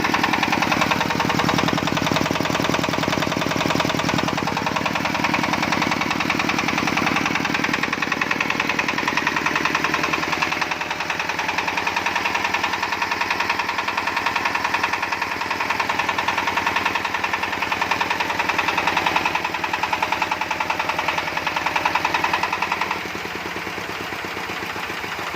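Dong Feng S1115M single-cylinder diesel engine running steadily with a rapid, even knocking beat, a little quieter near the end.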